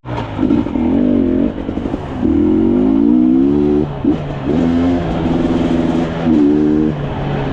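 Off-road dirt bike engine revving in repeated bursts, the pitch rising and falling five or so times over a steadier low engine note.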